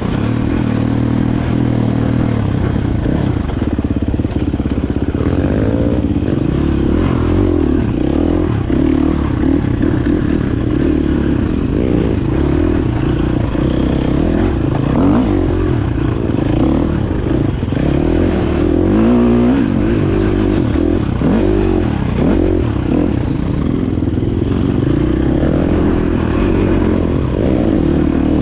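Dirt bike engine running while being ridden, its pitch rising and falling as the throttle is opened and closed.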